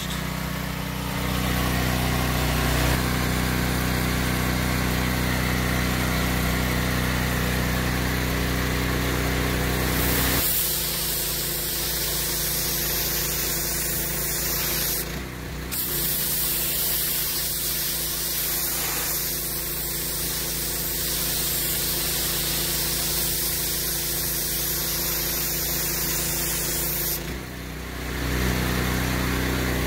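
Gas-engine pressure washer running steadily, its high-pressure water jet spraying against a pickup truck's body. The sound changes about a third of the way in, breaks off briefly twice, and changes back near the end.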